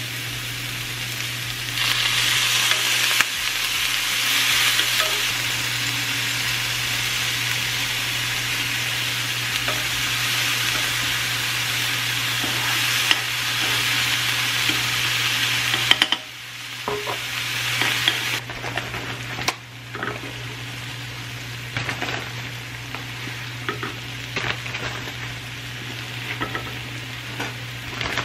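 Vegetables sizzling and frying in a hot skillet over a gas flame while being stirred. The sizzle gets louder about two seconds in and drops suddenly about halfway through, after which a quieter sizzle is broken by scattered clicks.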